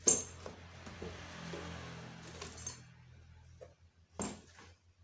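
Metal hand tools from the bike's toolkit, open-end wrenches, clinking and clattering as they are handled. A sharp clink at the start is the loudest, with lighter rattling after it and another knock about four seconds in.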